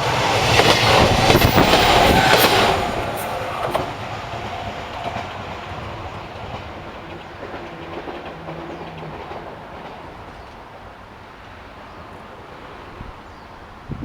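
Train passing close by, its wheels clattering over the rail joints, then running away and fading steadily over the following ten seconds.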